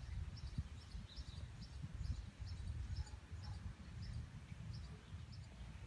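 A bird chirping, short high chirps repeated about twice a second, over an uneven low rumble.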